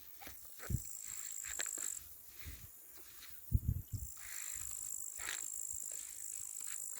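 Crickets trilling in a steady high-pitched drone that sounds for over a second near the start, pauses, then runs through the second half. A few low thuds and clicks come in between, the loudest about halfway through.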